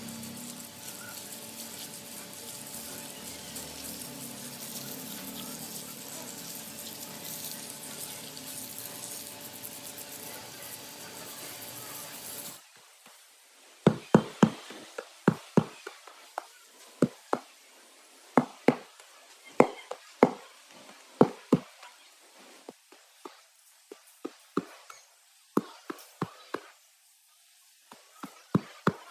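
A steady workshop hiss with a faint hum, then after an abrupt change a run of sharp, ringing knocks on metal, one or two a second, irregular in spacing.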